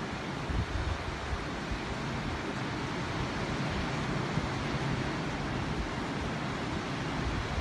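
Ocean surf washing onto a beach, a steady rushing hiss with no single crash standing out.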